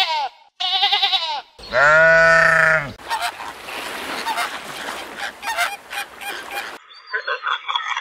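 Sheep bleating three times: two quavering bleats, then a longer, louder one that drops in pitch at its end. From about three seconds in, a flock of flamingos honks and chatters in a dense overlapping racket. About a second before the end, a quieter run of different calls begins.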